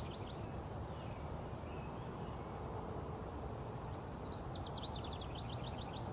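Parrot chirping faintly: a few high chirps right at the start, then a quick run of short repeated chirps about two-thirds of the way through, over a steady low background rumble.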